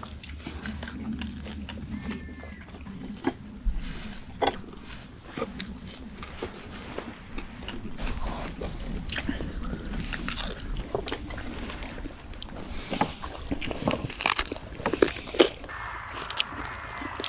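People biting and chewing food, with irregular crunchy bites and clicks throughout.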